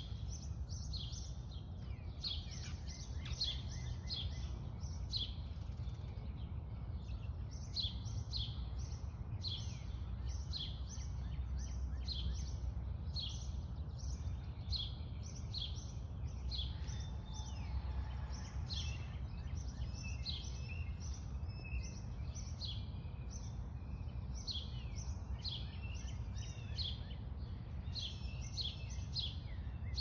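Songbirds chirping in quick runs of short, high repeated notes, with pauses between runs, over a steady low background rumble.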